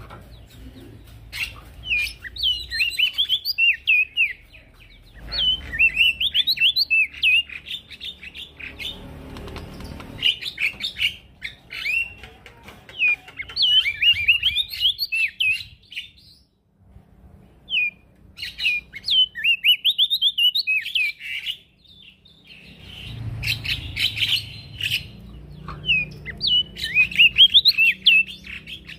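Male prenjak daun singing vigorously: repeated phrases of fast, high, twittering chirps, each a couple of seconds long, with short pauses between them and a longer pause a little past halfway.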